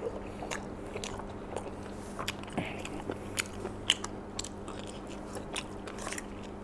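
A man chewing a mouthful of baked lasagna, with scattered small clicks and smacks of eating. Near the end a utensil digs into the aluminium foil tray.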